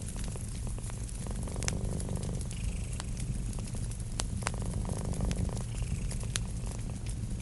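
A domestic cat purring steadily, swelling with each breath about every three seconds, over a wood fire crackling with scattered sharp pops.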